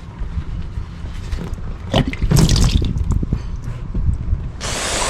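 Engine oil dribbling and dripping into a drain box during an oil change, with small knocks of handling. Near the end a sudden steady hiss starts.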